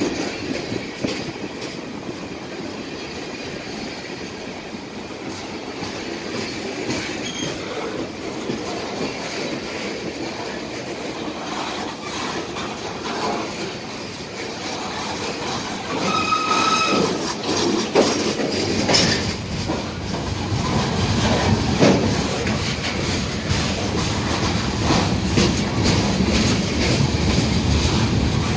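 Freight train cars rolling past close by: steady rumble and clatter of steel wheels over the rail joints, with scattered knocks. A brief high-pitched wheel squeal comes a little past the middle, and the rumble gets louder over the last third.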